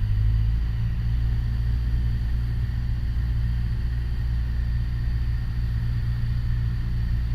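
Piper Warrior's four-cylinder Lycoming piston engine droning steadily in flight, heard from inside the cockpit.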